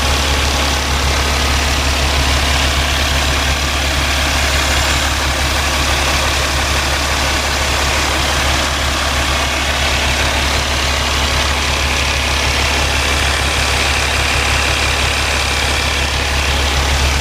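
Cummins ISX inline-six diesel in a 2011 Peterbilt 388 highway tractor idling steadily, a low even drone.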